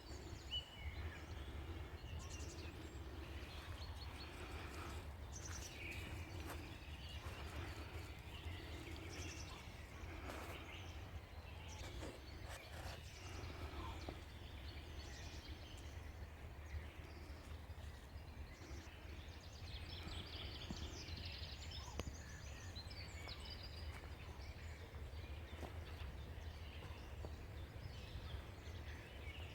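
Scattered songbird chirps and calls over a steady low rumble.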